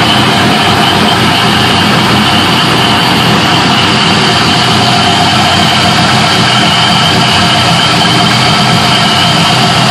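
Car engine idling steadily while still cold, on its first start after a new engine tune.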